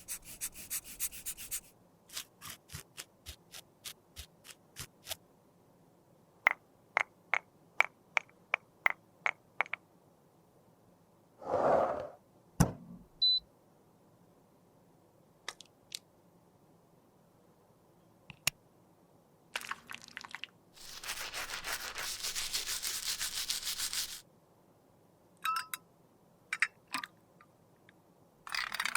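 Tools working Guerlain Météorites powder: a run of short taps, about two a second, a brief louder sound near the middle, then a few seconds of steady scraping.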